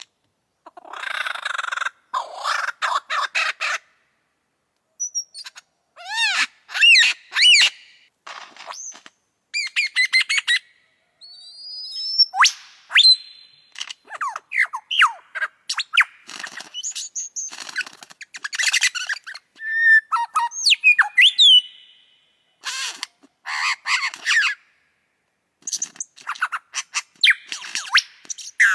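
Lyrebird singing a long, varied song of mimicked calls. Rapid rattling clicks, ringing whistles and sweeping notes follow one another in quick succession, with a few short pauses.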